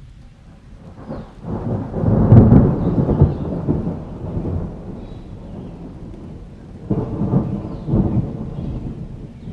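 Thunder rolling over steady rain: a long roll that swells and peaks about two seconds in, then a second, shorter roll near the end.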